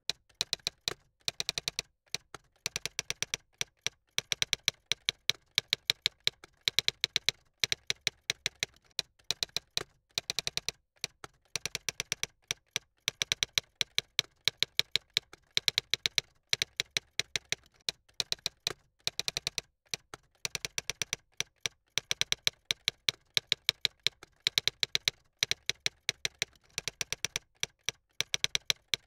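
Typing on a computer keyboard: rapid runs of keystroke clicks with short pauses between the runs.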